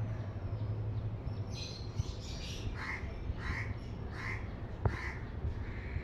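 A bird calling four times in an even series, about two-thirds of a second apart, over a steady low hum.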